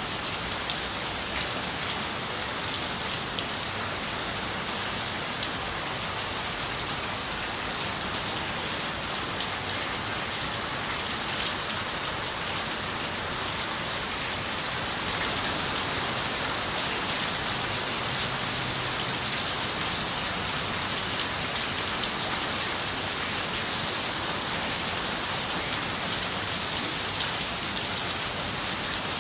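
Steady rain falling on a window, a continuous even hiss with scattered single drops ticking. It grows a little louder about halfway through.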